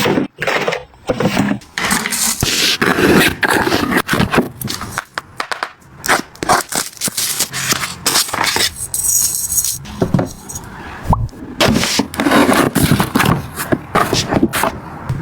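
Household items being handled and set down: a busy run of scrapes, clicks and knocks, as containers and packaging are moved around.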